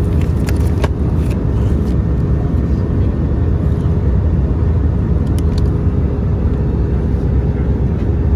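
Airbus A321-200 cabin in flight: steady engine and airflow noise, with a faint steady hum and a few light clicks.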